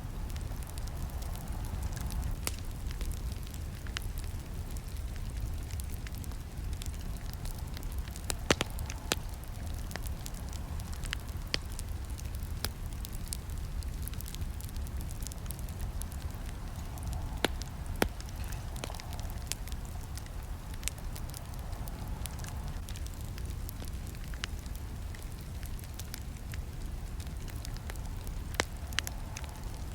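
Wood campfire burning, with irregular sharp crackles and pops scattered over a steady low rumble of flames. A few louder snaps stand out, the strongest about eight and eighteen seconds in.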